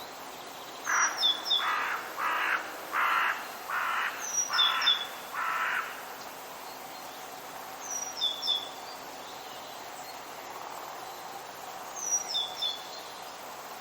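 Forest birds: a crow caws seven times in a row, with harsh calls about two-thirds of a second apart. A small songbird repeats a short, high chirping phrase four times over a steady background hiss.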